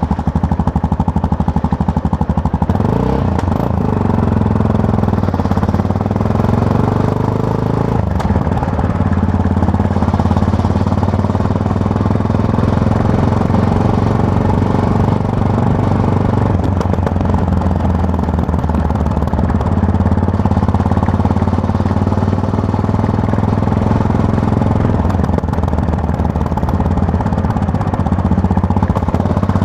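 Yamaha MT-03 motorcycle's parallel-twin engine on the move, heard from the rider's seat. It holds a steady low beat for the first few seconds, the revs rise and fall through gear changes between about three and eight seconds in, then it runs steadily at a cruising pace with small changes in pitch.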